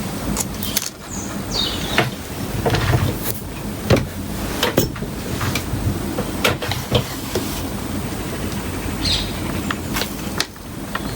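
Small sharp clicks and taps at irregular intervals from tiny watch parts and a small tool being handled on a work surface, over a steady low hum.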